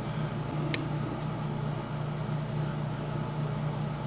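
Steady low mechanical hum in the room, with one light click about three-quarters of a second in.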